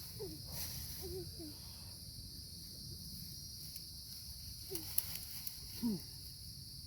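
Steady chorus of insects trilling in the background, over a low rumbling noise, with a few short faint sounds and a sharp click about five seconds in.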